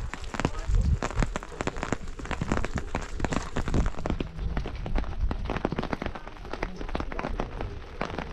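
Heavy rain falling, with many separate drops tapping sharply close by.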